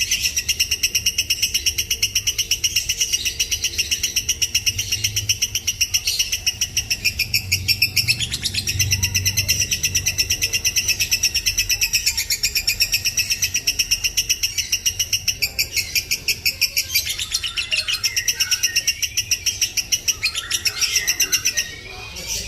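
Lovebird chattering in a long unbroken run of shrill, rapid chirps, several a second, stopping shortly before the end. This is the nonstop 'gacor' song of a bird in full voice.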